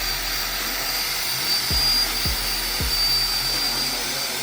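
A power drill with a sanding attachment runs steadily with a high whine, wet-sanding a headlight lens. Rap music with deep falling bass hits plays underneath.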